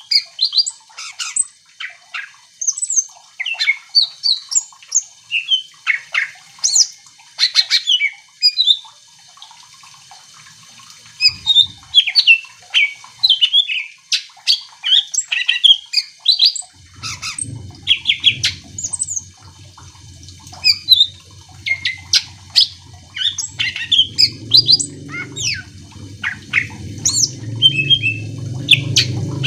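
Cucak ijo (green leafbird) singing a fast, varied stream of sharp chirps, trills and whistles. A low hum comes in about halfway through and grows louder toward the end.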